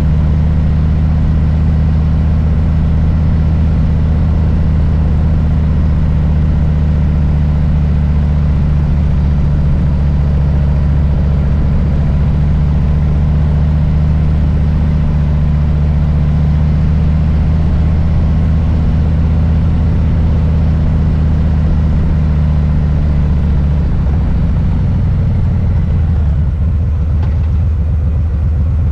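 Harley-Davidson Low Rider S's Milwaukee-Eight V-twin engine running with a steady low rumble, its note changing and turning rougher near the end.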